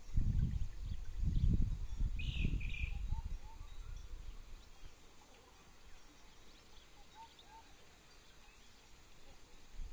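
Rural outdoor ambience with distant birds: a bird gives a short double call about two seconds in, and faint short chirps recur throughout. Low rumbling gusts of wind on the microphone fill the first few seconds, then die down.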